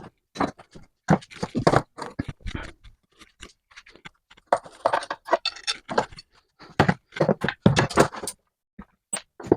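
Metal vise parts and tools being handled: irregular clicks, knocks and short scrapes.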